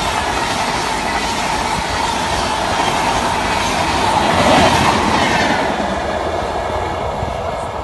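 Express train's passenger coaches passing close at about 130 km/h, wheels running on the rails in a dense rush. It is loudest as the last coach goes by about four to five seconds in, then fades as the train moves away.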